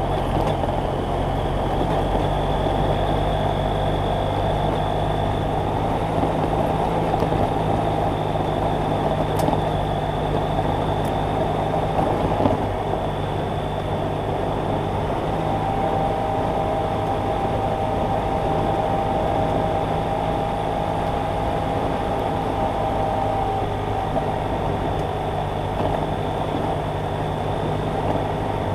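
BMW F800GS Adventure motorcycle's parallel-twin engine running at a steady speed while riding, with wind and road noise.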